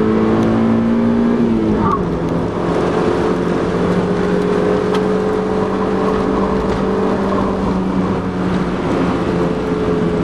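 Stock Mazda MX-5's 1.6-litre four-cylinder engine pulling hard on a racetrack, heard from on board. Its note climbs, drops suddenly about two seconds in, then holds fairly steady, over constant road and wind noise.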